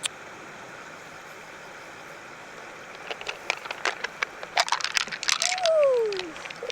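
A quick run of sharp clicks and cracks from hard objects, starting about halfway through and densest near the end. Over the last of them comes a short tone that falls in pitch.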